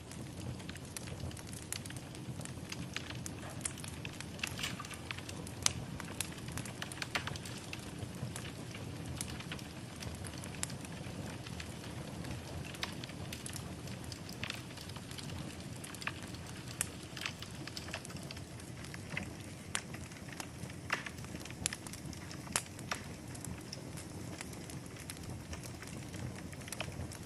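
Wood fire burning in a fireplace: a steady low rush of flames with irregular sharp crackles and pops every second or so.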